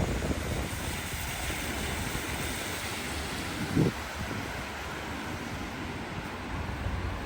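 Steady rushing outdoor noise, with one short low thump about four seconds in.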